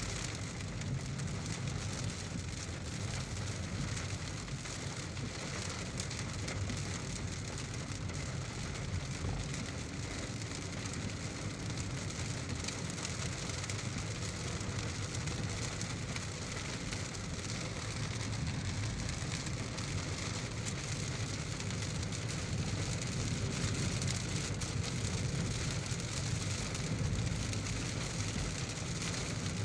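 Steady heavy rain, with a low, even rumble of a car driving underneath it.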